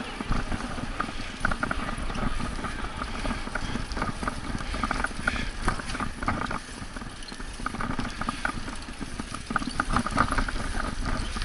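Wind rushing over the microphone and road noise of a bicycle being ridden, with scattered light clicks and rattles throughout.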